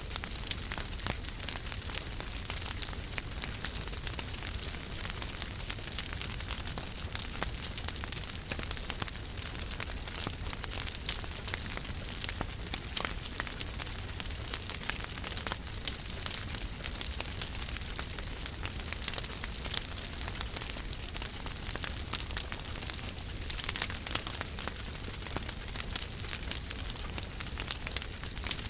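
Wood fire burning in a fireplace: a steady crackle of many small snaps over a soft hiss, with a few louder pops.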